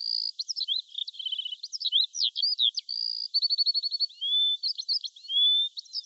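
Bird song: a fast, varied run of high chirps, short trills and whistles, with a rapid string of clipped notes about three seconds in.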